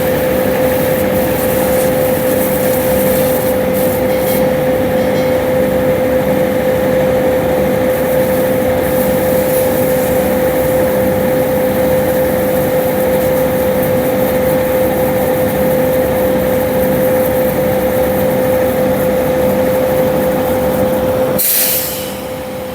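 Concrete mixer truck running steadily with a constant whine over a noisy rush. Near the end a short hiss, after which the sound drops quieter.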